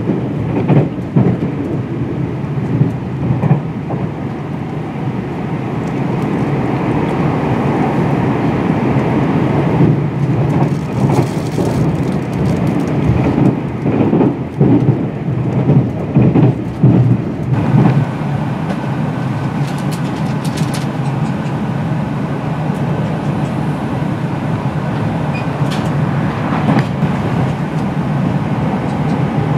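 Cabin noise of a Meitetsu 2000 series μSKY electric train running at about 105 km/h: a steady rumble of wheels on rail. A run of clacks over rail joints and the junction points comes midway, then the noise settles into a smoother, even hum.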